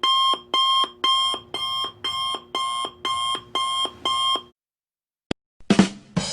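Digital alarm clock beeping, nine shrill beeps about two a second, stopping after about four and a half seconds. Near the end comes a rimshot joke sting: a quick couple of drum hits, then a cymbal crash.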